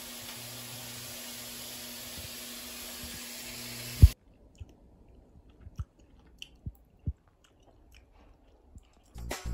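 Steady low room hum with one sharp knock about four seconds in. After it, near quiet with a few faint, scattered crunchy clicks of chewing.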